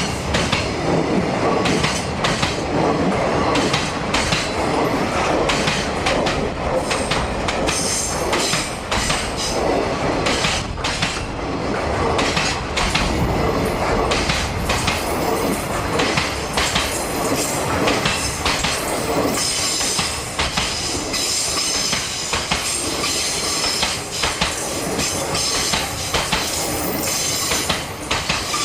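Freight train wagons rolling past, the wheels clacking over rail joints in a rapid, uneven run of clicks. From about two-thirds of the way in there is also a high wheel squeal.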